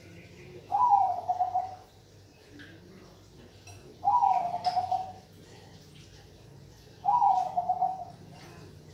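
Perkutut Bangkok, a Thai-bred zebra dove, cooing: three trilled coos about three seconds apart, each about a second long, starting high and dropping in pitch.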